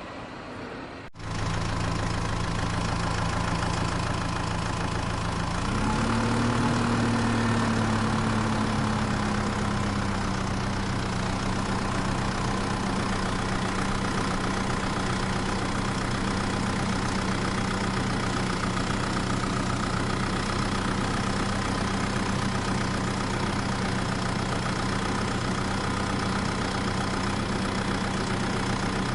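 Engine idling steadily after starting abruptly about a second in; around six seconds in its pitch rises briefly, then eases back down to a steady idle.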